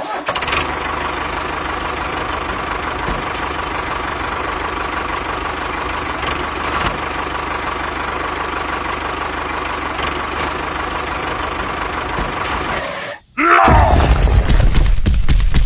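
A small motor running steadily, a constant drone with a high whine. About thirteen seconds in it stops abruptly and a louder stretch of sharp clicks and knocks follows.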